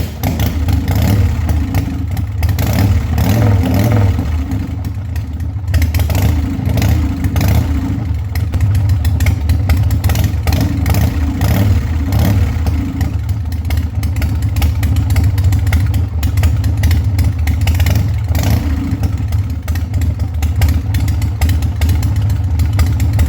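Harley-Davidson Sportster 1200's V-twin engine running loudly and steadily, its level rising and falling slightly.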